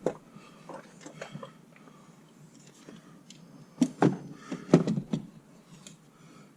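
Hands handling small plastic parts of an exhaust valve delete plug kit: a series of sharp clicks and knocks, loudest in a cluster about four to five seconds in.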